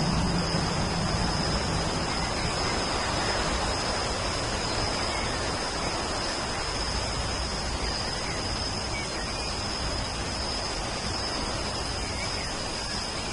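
Steady rain falling, an even hiss, with a constant thin high tone running above it.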